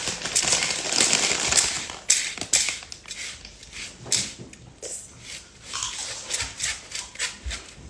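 Icing sugar being measured out and sieved into a bowl: a rustling hiss for about two seconds, then irregular light taps and scrapes of utensils.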